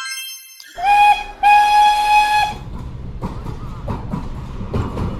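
Steam train whistle blowing twice, a short blast then a longer one, followed by the train rolling with a steady rumble and clickety-clack of wheels on the rails.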